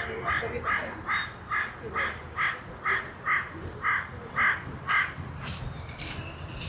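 A crow cawing in a quick, even run of about a dozen calls, a little over two a second, that stops about five seconds in.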